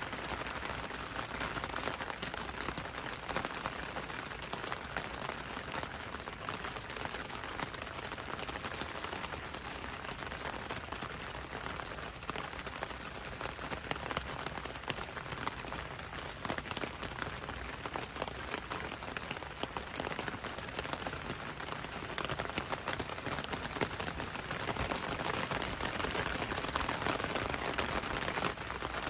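Steady rain falling on leaves and foliage: a dense, even hiss made of countless small drop ticks.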